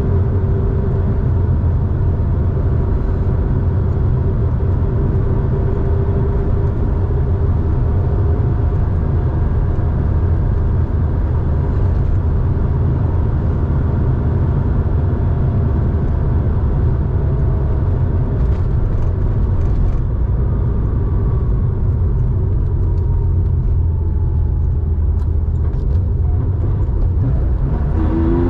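1987 Porsche 911's air-cooled flat-six, built to 3.4 litres, running steadily through a Scart two-in-one-out muffler with a deep low rumble. Near the end the revs begin to climb.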